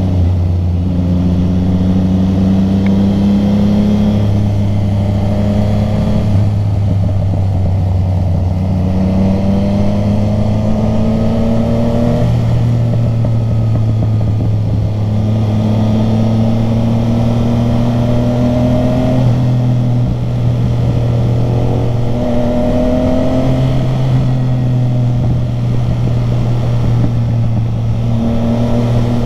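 Motorcycle engine under way, its pitch climbing as it accelerates and dropping back at each gear change, several times over, with a steadier stretch of cruising in the middle.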